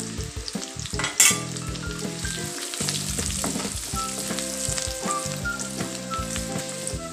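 Onion, garlic, dried red chillies and cumin seeds sizzling and crackling in hot oil in a kadai as turmeric powder is stirred in with a wooden spatula. A sharp knock about a second in.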